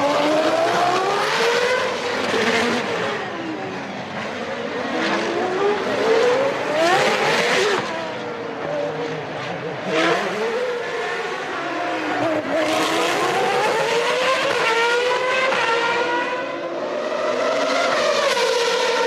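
1993 Formula One race car engines, high-revving and racing-pitched, rising and falling again and again as cars brake and accelerate past, with several cars overlapping. Near the end one engine climbs and then holds a steady high note.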